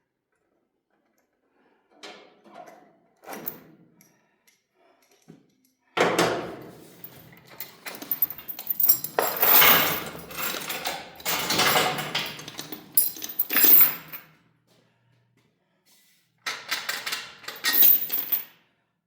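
Metal clinking and jangling in bursts, loudest in a long clattering stretch in the middle and again briefly near the end.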